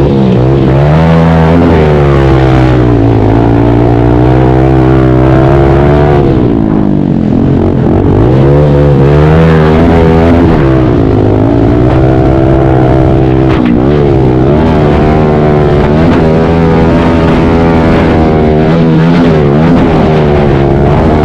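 Pit bike engine racing hard, its pitch climbing and dropping again and again as the throttle is opened and rolled off, with deeper dips about 3, 7 and 14 seconds in.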